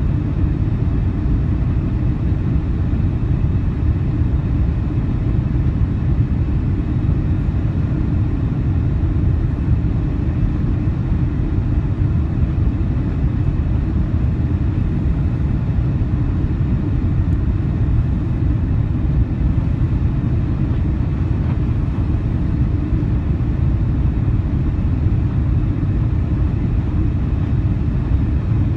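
Steady low rumble of cabin noise inside an Airbus A340-300 airliner, with no change in level.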